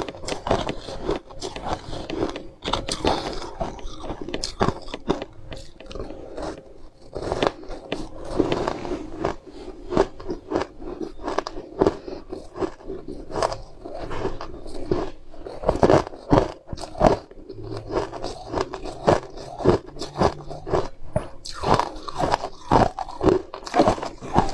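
Close-up crunching and chewing of a crunchy food, a rapid, irregular run of sharp crunches throughout. Around the start, fingers also scrape and crumble the powder-coated food in a plastic tub.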